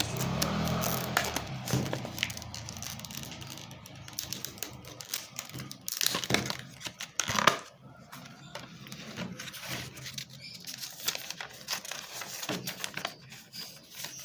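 Hard plastic clamshell packaging being handled and opened: irregular crinkles, crackles and sharp plastic clicks. A passing vehicle's engine fades away in the first couple of seconds.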